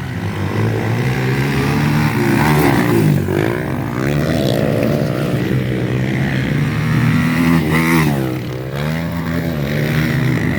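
Motocross dirt bikes racing on the track, engines revving up and down through the gears. The pitch drops sharply as bikes pass close, about three seconds in and again near the end.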